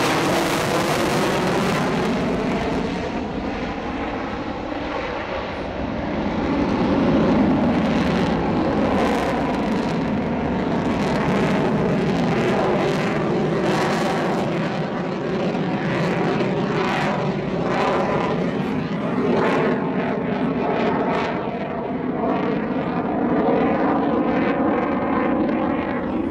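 F-16 Fighting Falcon's jet engine roar as the fighter flies its demonstration past the crowd, a continuous loud rush whose tone sweeps up and down in pitch as the jet moves, easing slightly about five seconds in before swelling again.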